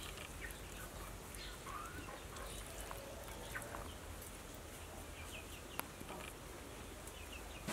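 Faint background ambience with a few scattered, soft bird calls and a single sharp click in the second half.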